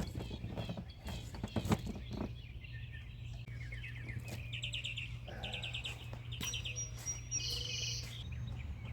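Songbirds chirping and trilling in several quick bursts, over a steady low hum. A few sharp clicks and knocks come in the first two seconds.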